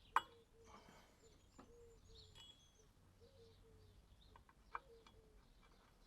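A single sharp knock just after the start, then a quiet stretch with birds calling faintly now and then and a smaller click near five seconds.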